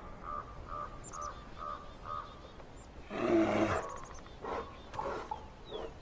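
A wild animal gives a rough, drawn-out roar about three seconds in, lasting under a second, followed by a few shorter, quieter calls. Faint high bird chirps come and go around it.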